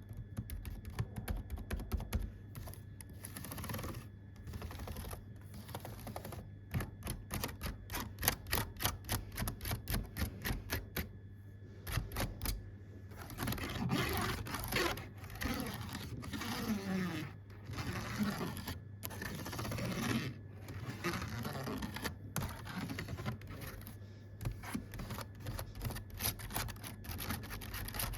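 Computer keyboard keys being typed on in rapid runs of clicks, with a short pause partway through followed by a denser, busier stretch of tapping.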